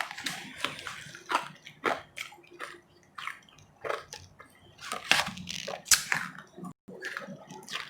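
Close-miked biting and chewing of powdery ice: irregular crisp crunches, a couple each second, between softer chewing.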